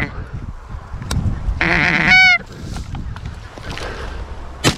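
A loud goose honk about two seconds in, then a single sharp shotgun shot near the end, over steady wind rumble on the microphone.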